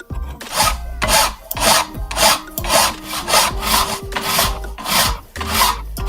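Hand tool worked back and forth in even rasping strokes, about two a second, like sawing or filing.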